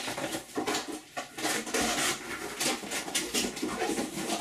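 Packaging and parts being handled while unboxing: a run of quick rustles, scrapes and light clatters, many in a row.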